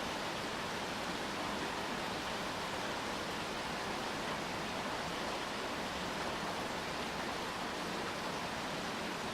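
Steady rain falling, heard as an even hiss with no separate drops or changes standing out.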